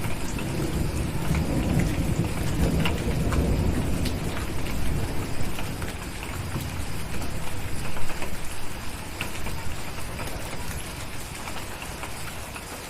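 Steady rain, with a low thunder rumble that rolls through the first few seconds and fades away. A few sharp crackles of a wood fire now and then.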